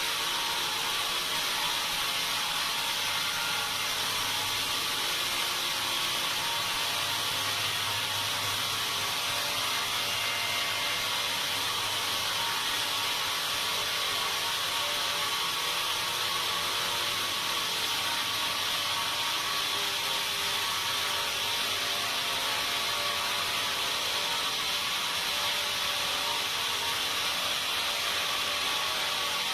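Sawmill saw running steadily through timber, a constant, even mechanical noise.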